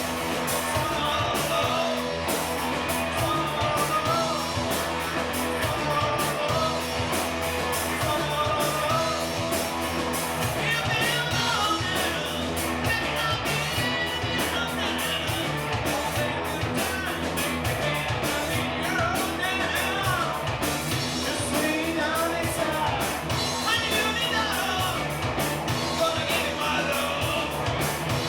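Rock music played by a band, with a singer over guitar and a steady drum beat.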